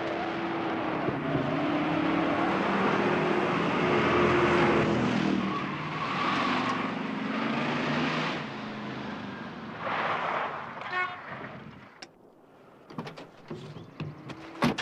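A motor vehicle's engine running hard and revving, its pitch rising and falling, mixed with tyre noise. About twelve seconds in it drops away to a few scattered clicks and knocks.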